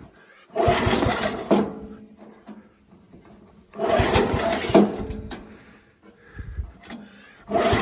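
The small single-cylinder engine of a 1969 Montgomery Ward Garden Mark Compact 7 lawn tractor catching on the second pull. It runs unevenly, surging three times about three seconds apart and dying down between. This is a choked cold start on year-old gas.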